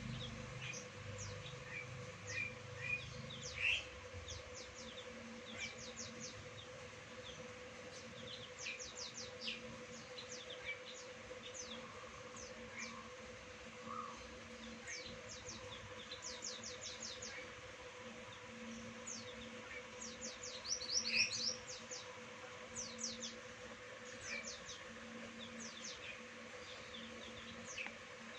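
Wild birds chirping: many short, high, quick downward-sweeping calls scattered throughout, some in quick runs of several, with a steady faint hum beneath.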